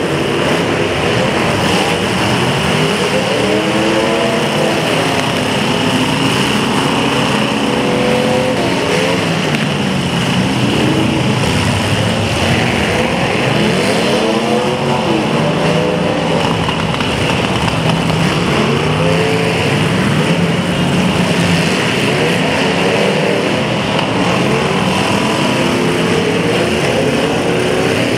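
Demolition derby car engines revving, several at once, their pitches rising and falling and overlapping over a constant roar.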